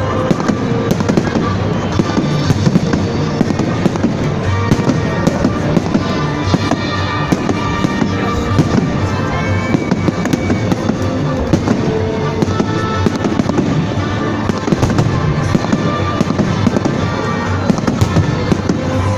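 Fireworks salute: dense, continuous popping and crackling of bursting shells with no pause, with music playing underneath.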